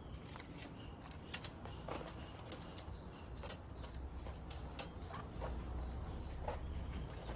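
Scattered light clicks and taps of metal parts being handled, a few a second at irregular intervals, over a low steady rumble.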